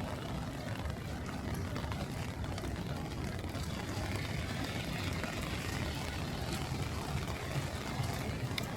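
Steady outdoor city noise in a storm: wind buffeting the microphone as a fluctuating low rumble, with a hiss of rain and traffic underneath.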